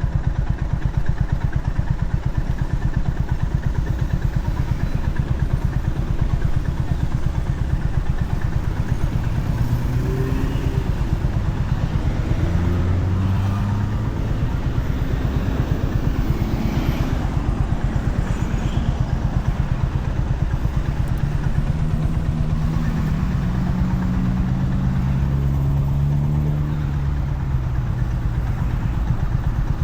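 Honda CB350RS's air-cooled single-cylinder engine running steadily under way, its firing pulses in a constant low thrum, heard from the bike while riding.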